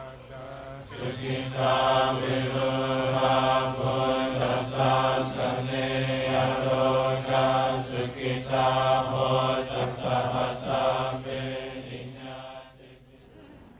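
Buddhist chanting: voices chanting on a steady low pitch. It swells up about a second in and fades away near the end.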